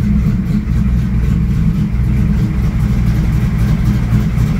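1995 Pontiac Trans Am's LT1 V8 with a TPIS aftermarket camshaft idling steadily while it warms up after a cold start, heard from inside the cabin.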